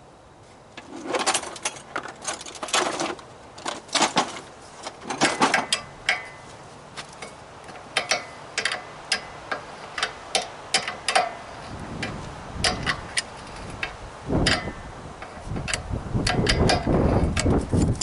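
A wrench working a brass fitting off an air compressor: a run of sharp metal clicks and clanks, with heavier knocking and handling noise in the last few seconds.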